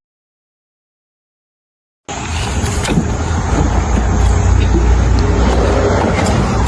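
Two seconds of dead silence, then a loud, steady engine rumble starts suddenly.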